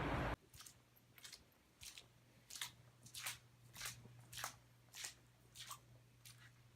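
Footsteps, a faint crunch with each step about every two-thirds of a second, over a low steady hum.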